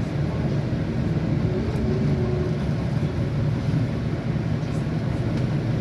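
Scania N230UD double-decker bus's five-cylinder diesel engine running steadily, heard from inside the bus, with a constant low drone and road noise.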